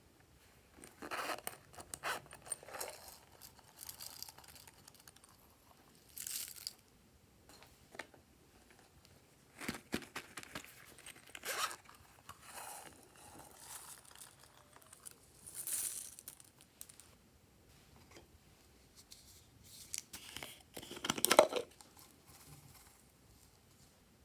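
Glossy slime being worked by hand, stretched, folded and pressed as things are mixed into it: irregular short sticky noises and clicks with quiet pauses between, the loudest near the end.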